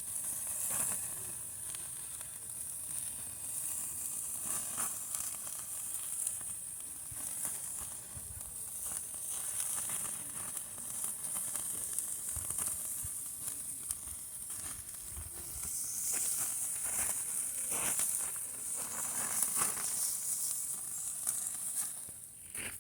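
Hamburger patties sizzling over a campfire: a steady high hiss with scattered crackles and pops.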